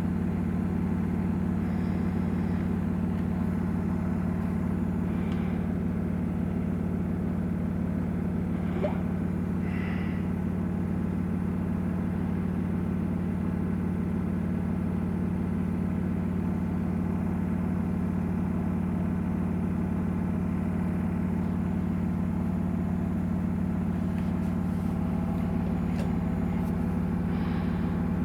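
Samsung WW900 washing machine running its Super Speed cycle, its drum turning at a steady speed with an even, low motor hum.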